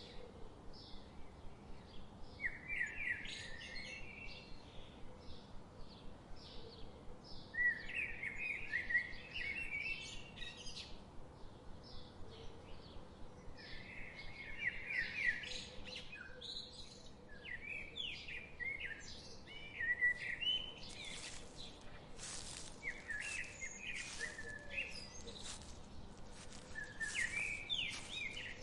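Wild songbirds singing repeated short chirping phrases, with a fast regular ticking early on and sharp clicks near the end, over a faint steady hiss.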